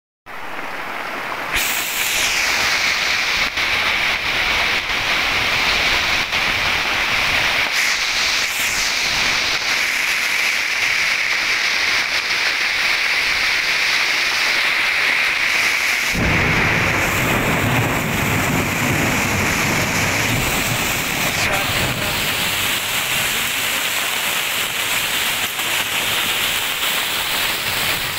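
Heavy rain pouring onto a street in a steady, loud hiss. About sixteen seconds in, a low rumble joins the downpour and carries on under it.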